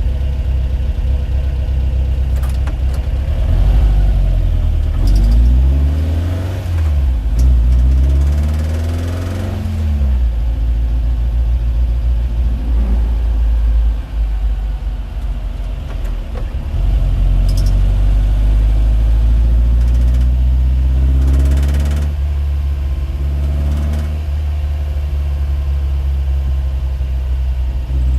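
Motor vehicle engine running, its pitch rising and falling twice as it revs or accelerates and eases off.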